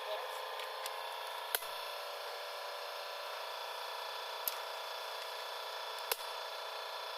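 Three sharp metallic clicks of hand tools on engine parts, spaced a few seconds apart, over a steady hum.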